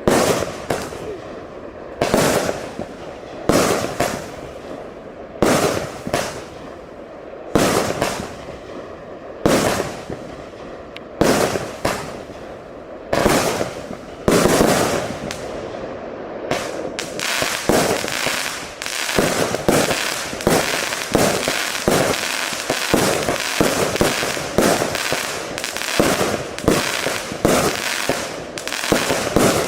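A 105-shot compound firework battery (Wolff Feuerwerk 'Renegade') firing shot after shot. Each shot is a sharp bang followed by a fading crackle, at first about every one and a half to two seconds. From about halfway the shots come fast, several a second.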